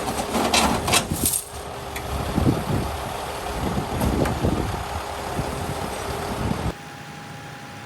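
Heavy diesel truck engine idling, with a few short noisy bursts in the first second or so. About three-quarters of the way through it cuts off abruptly to a quieter steady hum with a faint thin tone.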